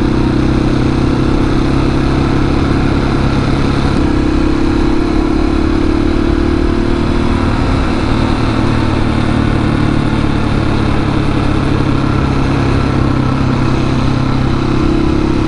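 701 supermoto's single-cylinder engine running steadily while riding at road speed, with noise from the ride mixed in; the engine note shifts slightly a few seconds in and again near the end.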